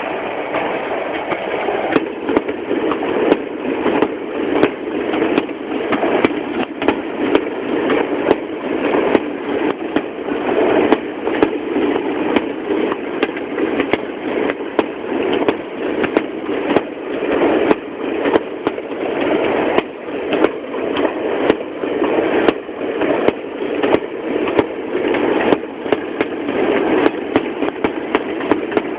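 Aerial fireworks going off in rapid succession: many sharp bangs and crackles, one or more a second, over a continuous dull rumble, recorded poorly through a mobile phone's microphone.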